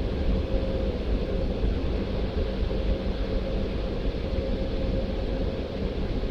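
Christ Auto-Jet C115 car wash machine running, heard from inside the car: a steady rushing noise over a low rumble, with a faint hum that fades about a second in.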